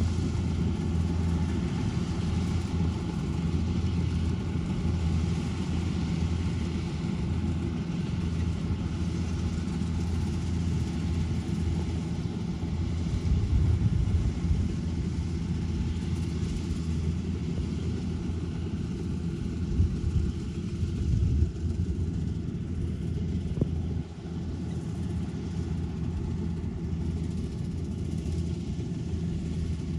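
Kubota DC-105X rice combine harvester's diesel engine running steadily with a deep, even drone, dropping slightly in loudness late on.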